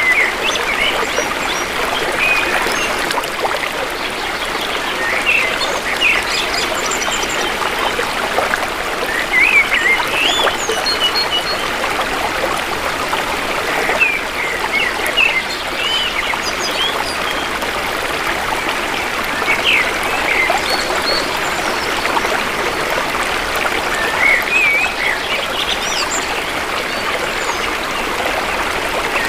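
Shallow river water flowing and trickling steadily, with forest birds chirping now and then over it.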